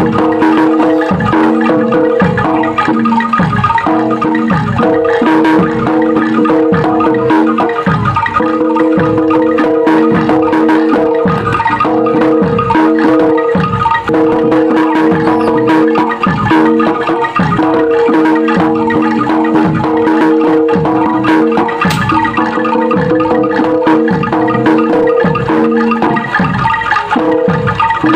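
Gamelan-style music with metallophones ringing out a dense, repeating pattern over steady held tones, and repeated low drum strokes that drop in pitch.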